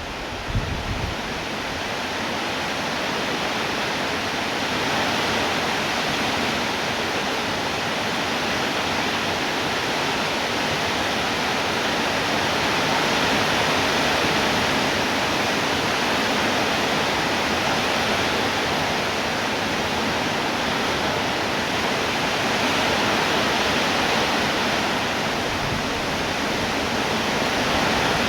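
Steady heavy rainfall, an even hiss of rain that holds at the same strength throughout, with a few low thumps in the first second.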